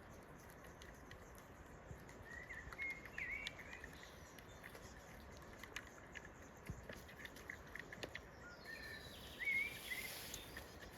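Outdoor ambience: a small bird chirping in two short bouts, about two seconds in and again near the end, over a steady low hiss with scattered faint clicks.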